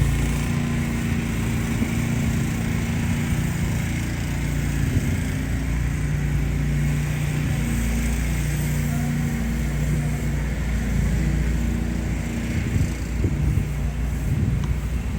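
Motor vehicle engine running steadily with a low drone.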